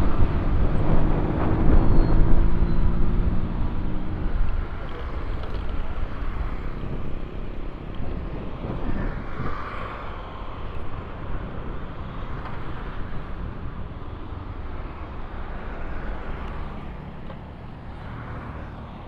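Motorcycle riding on a road: engine hum under heavy wind and road noise on the rider's microphone. The engine tone is plain for the first few seconds, then everything sinks gradually quieter toward the end.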